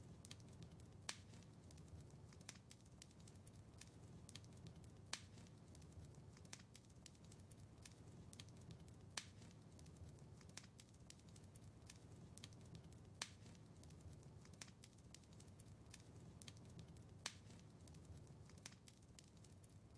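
Wood fire crackling in a fireplace: a stream of small sharp pops and snaps, with a louder pop about every four seconds, over a low steady rumble of the burning.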